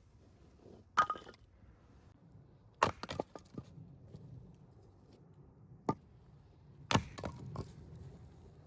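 A handful of loud, sharp knocks and cracks, the first about a second in and the last near the end, each followed by a brief smaller clatter; they sound like something struck or snapped.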